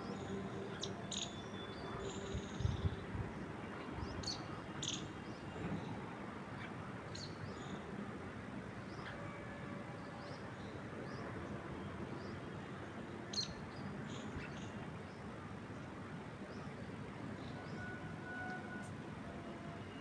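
Wind moving through trees as a steady rush, with birds giving scattered short, high chirps throughout. A couple of low thumps come about three seconds in.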